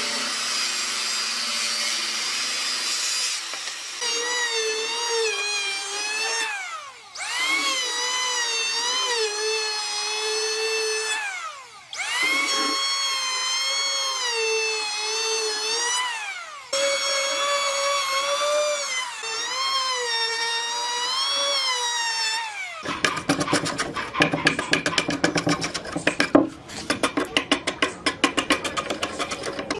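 Electric woodworking power tool working wood: a motor whine whose pitch sags and recovers under load, spinning down and starting up again about three times. Near the end it gives way to a fast run of sharp knocks.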